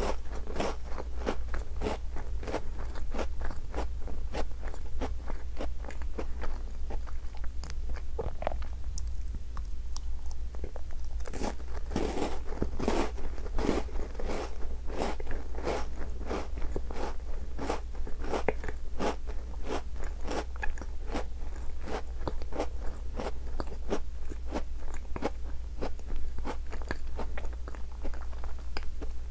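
Close-miked biting and chewing of a chocolate-coated Tim Tam biscuit: a steady run of crisp crunches, about two a second, with a louder cluster of crunches around the middle.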